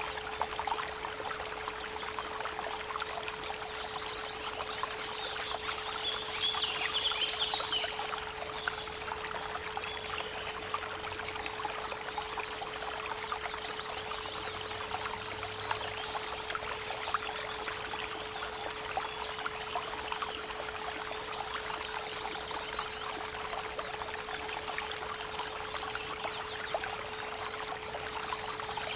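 Creek water running in a steady rush, with a steady 432 Hz pure tone underneath. Birds sing in short chirping phrases, most clearly about a third of the way in and again past the middle.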